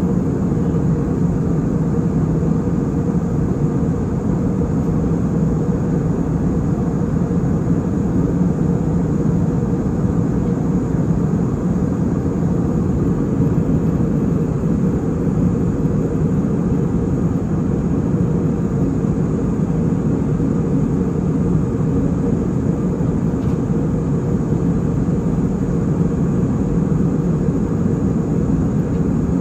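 Airliner cabin noise in flight: the engines and rushing air make a steady, even drone, heaviest in the low range, with a faint steady hum underneath.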